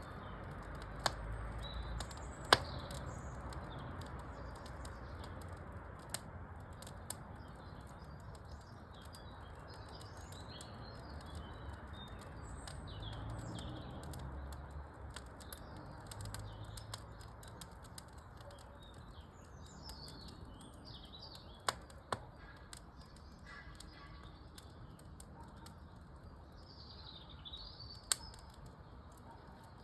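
Wood fire in a fireplace crackling, with a handful of sharp pops over a steady low hiss, while small birds chirp.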